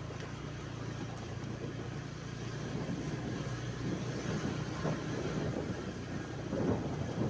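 A steady low engine drone under a haze of road and wind noise, as from a motor vehicle on the move.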